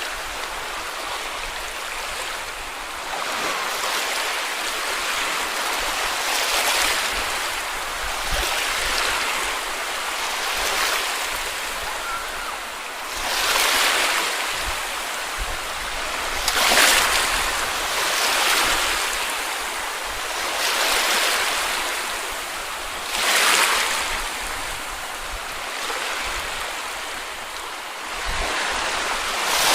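Small sea waves breaking and washing on a beach, a steady wash with a louder swell every few seconds, the strongest about halfway through.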